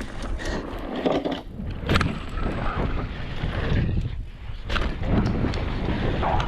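Wind buffeting the microphone over a steady rumble of a mountain bike rolling along a dirt trail, with a few sharp knocks and rattles, the loudest about two seconds in and another nearly five seconds in.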